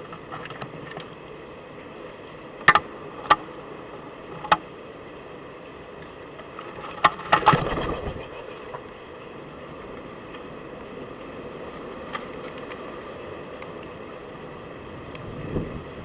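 Steady outdoor background hiss, broken by about six sharp clicks and knocks: three spread out in the first few seconds, then a quick cluster of three about halfway, the last followed by a short rustle.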